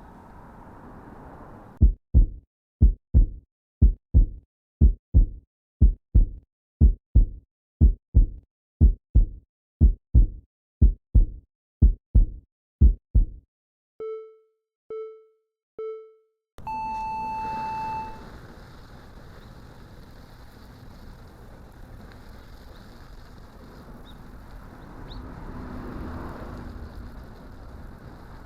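Heartbeat sound effect: a slow, regular series of about eighteen low thumps, followed by a countdown signal of three short beeps a second apart and one longer, higher beep. After the signal, a steady outdoor background noise comes in.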